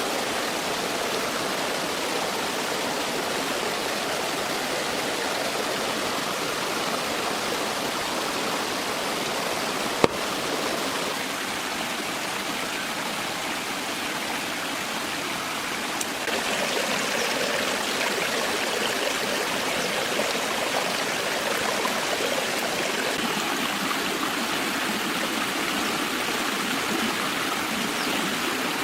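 Stream water flowing and rushing steadily. There is a single sharp click about ten seconds in, and the rushing turns slightly louder and brighter a little past halfway.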